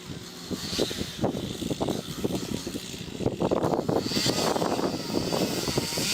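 Stihl 440 gasoline chainsaw cutting into an oak trunk, its engine under load with uneven, fluctuating loudness as the chain bites the wood.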